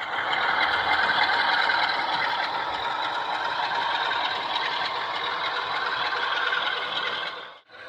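Recorded Class 47 Sulzer diesel engine sound played by a Loksound DCC sound decoder through a model locomotive's small speaker, running steadily. It is thin, with little bass, and cuts out briefly near the end.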